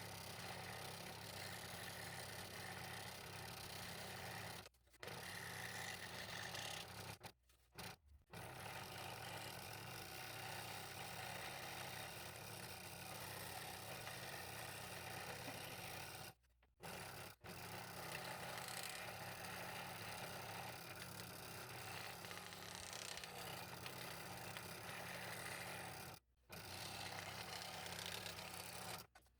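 Scroll saw running and cutting a thin wooden fretwork piece: a steady motor hum with the blade rasping through the wood. It is broken by several abrupt short silences where clips are joined.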